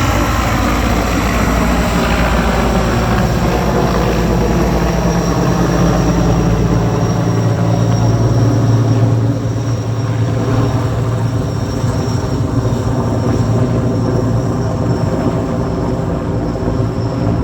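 Sikorsky S-64 Skycrane helicopter running: heavy, steady rotor sound with the high, steady whine of its twin turboshaft engines. The sound eases off a little about nine seconds in.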